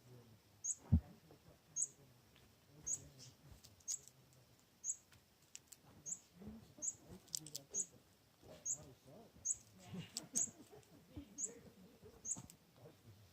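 A small bird giving short, high chirps about once a second, with faint rustling underneath.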